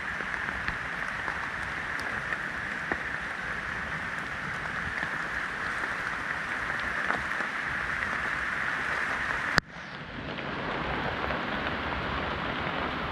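Steady rain falling, an even hiss with a few faint ticks. About ten seconds in, a sharp click, then the sound drops away suddenly and comes back over about a second.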